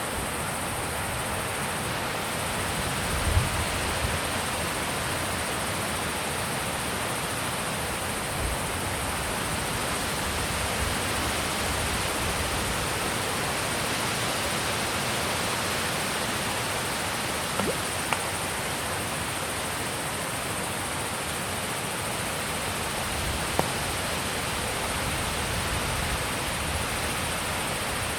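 Steady wind blowing, an even rush of noise, with a few brief low thumps of wind on the microphone, the strongest about three seconds in.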